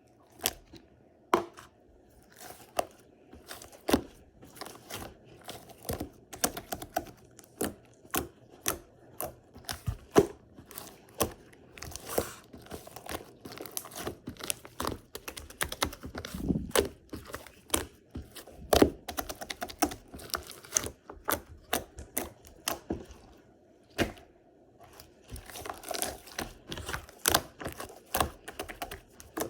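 Opaque sky-blue slime being squished and worked by hand, giving off sharp irregular clicks and pops, with denser crackling stretches now and then.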